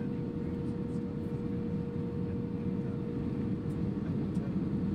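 Cabin noise inside an Airbus A320 on approach: a steady low rumble of airflow and engines, with a thin steady hum held underneath.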